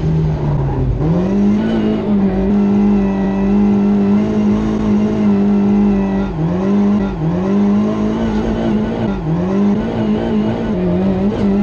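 Rally car engine heard from inside the cabin, held at high revs. In the second half the revs briefly drop and climb back four or five times.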